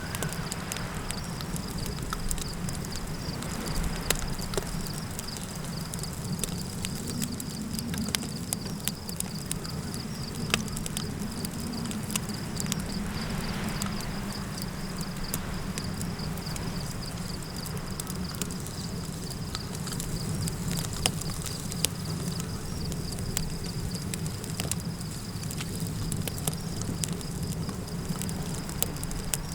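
Campfire crackling with frequent scattered pops, over a steady low wind rumble and a continuous high insect trill.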